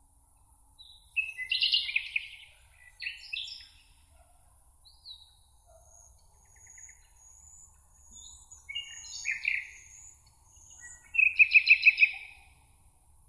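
Songbirds singing in short, separate phrases of chirps and warbles, with thin high notes in between; the loudest is a rapid trill of about half a dozen notes near the end. A faint steady high hiss runs underneath.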